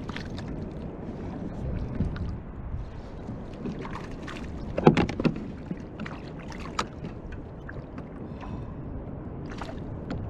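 Water lapping against a fishing kayak's hull, with a steady low rumble, and scattered knocks and clatters of gear on the hull. The loudest is a short cluster of knocks about five seconds in.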